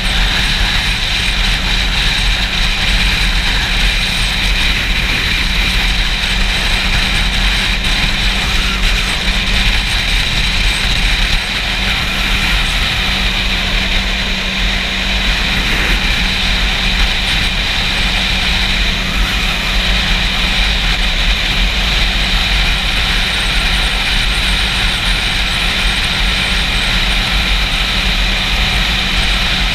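Wind noise buffeting a GoPro's microphone while riding a Yamaha YZF-R6 motorcycle, with its inline-four engine running steadily underneath. The level dips slightly about 11 seconds in.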